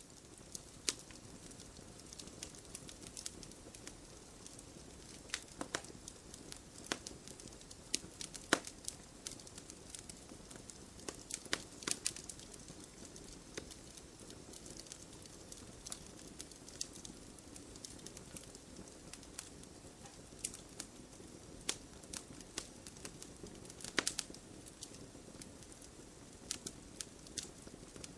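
Wood fire burning with a soft steady hiss and irregular sharp crackles and pops, a few louder snaps standing out among them.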